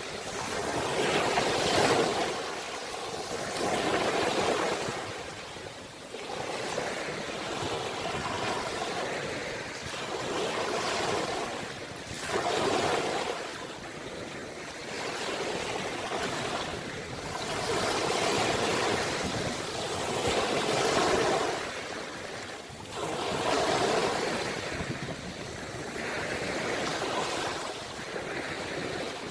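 Ocean waves breaking and washing up on the shore, surging and falling away every few seconds.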